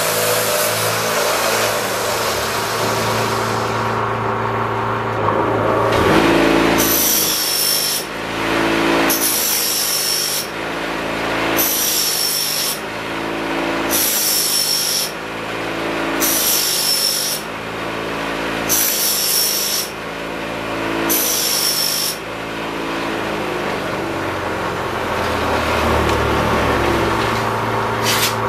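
Knife blades drawn across a running powered sharpening machine, about seven grinding passes roughly every two seconds from about six seconds in, each a hissing grind with a falling high ring, over the machine's steady motor hum.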